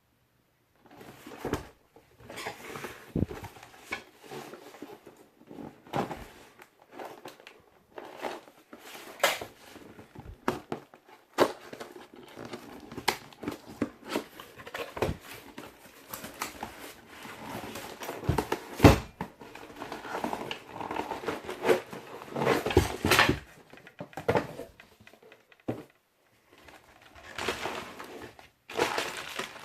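Packaging and parts being handled during an unboxing: irregular crinkling and rustling with many sharp clicks and knocks of hard parts, pausing now and then.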